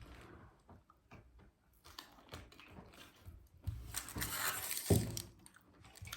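Someone eating baked chicken: small clicks and handling noises, with a louder stretch of tearing and chewing about four seconds in.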